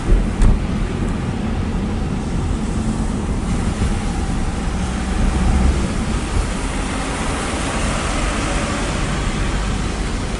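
Steady rushing noise with a deep rumble and a faint low hum: wind buffeting the microphone, mixed with vehicle noise, after a heavy rain and windstorm.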